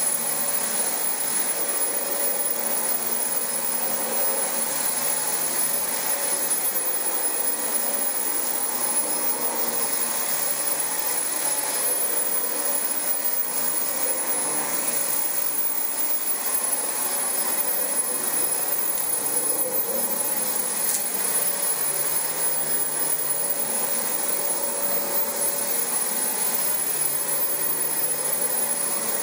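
Dyson DC25 upright vacuum cleaner running steadily over carpet, its motor giving a constant high whine.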